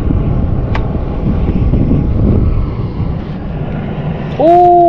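Steady low rumble with wind on the microphone. Near the end a person gives a short, loud rising call of "Oh".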